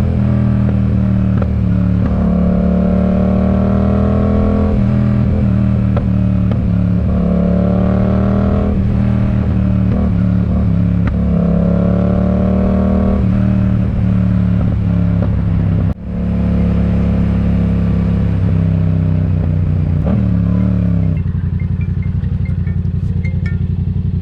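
Yamaha MT-07's parallel-twin engine through an aftermarket RoadsItalia exhaust, accelerating: its note climbs through the revs three times with short breaks between, typical of upshifts. Near the end it drops to a steady low idle.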